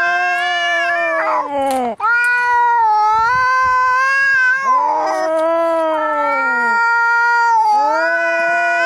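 Angry cats caterwauling in a fight: long, drawn-out, wavering yowls, one after another, with short breaks about two and five seconds in.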